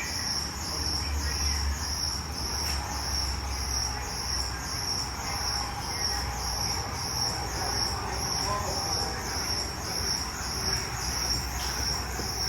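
Insect chirping steadily, a high-pitched chirp repeating about twice a second, over a steady low hum.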